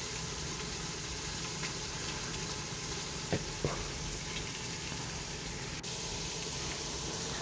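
Spiced tomato-onion masala sizzling steadily in oil in a pressure cooker on the stove, with two faint clicks about halfway.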